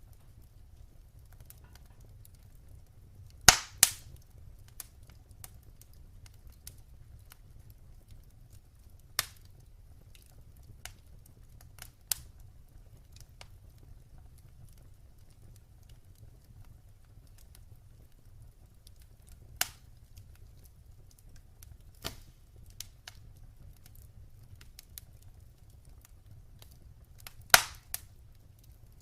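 Wood fire crackling in a fireplace: scattered small ticks over a low steady rumble, broken by sharp loud pops, a pair about three and a half seconds in, a few lesser snaps after it, and another loud pair near the end.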